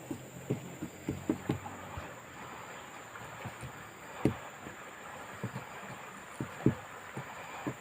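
A series of irregular dull knocks and taps, about a dozen, the loudest about four seconds in and near seven seconds, with a faint steady high-pitched tone behind them.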